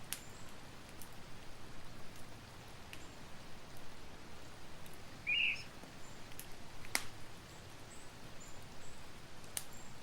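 Campfire burning with a steady hiss and scattered sharp crackles and pops, the loudest about seven seconds in. A short high chirp sounds about halfway through.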